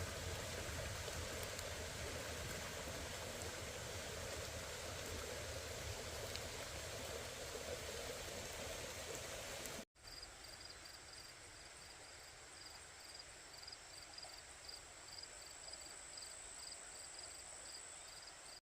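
A steady rushing noise like rain or running water. About ten seconds in it cuts to a quieter stretch with a faint high chirp repeating about twice a second over a thin steady high whine.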